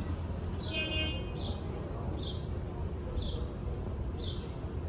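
A small bird repeating a short, high, falling chirp about once a second, over a steady low city rumble.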